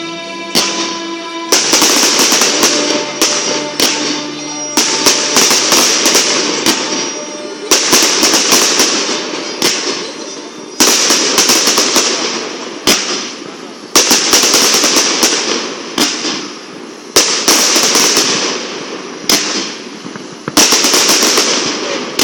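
Fireworks display: aerial shells bursting in a rapid series of sharp bangs, each followed by crackling, a fresh loud burst every second or two. Music is heard briefly at the start before the bangs take over.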